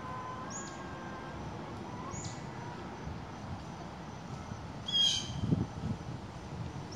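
Bird calls: two faint short falling calls, then one loud shrill call about five seconds in.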